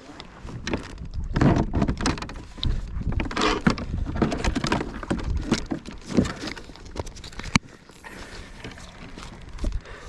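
Irregular knocks, clattering and rustling of a just-landed fish and fishing gear being handled aboard a kayak, with a sharp click about seven and a half seconds in.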